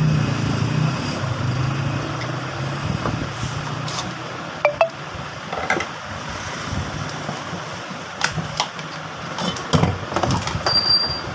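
Scattered clicks and knocks of tools and metal parts as a ceiling fan's upper housing is opened, over a steady low rumble in the first few seconds. A brief high tone sounds near the end.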